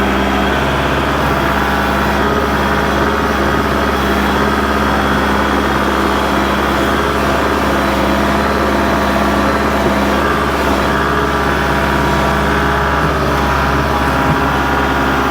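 Kubota L47 backhoe-loader tractor's diesel engine running steadily under a constant throttle.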